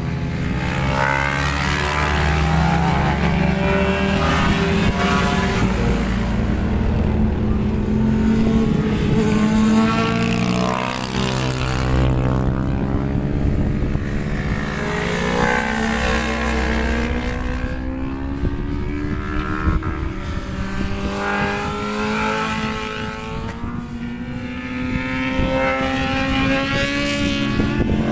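Racing motorcycle engines running hard on a circuit, the pitch rising and falling again and again as the bikes go through the gears and pass by.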